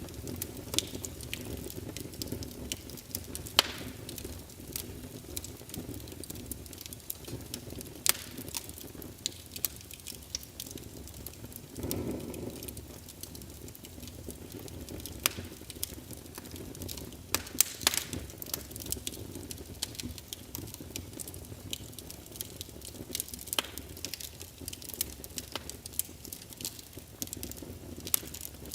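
Wood fire crackling in a fireplace: a steady low rumble of burning with scattered sharp pops and snaps throughout, and a brief swell in the rumble about halfway through.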